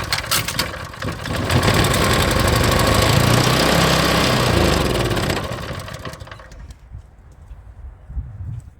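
Old Champion water pump's small engine is pull-started, fires and runs for about four seconds on sprayed-in carburetor cleaner, then fades out and dies as that fuel is used up. It is the engine's first run after years seized.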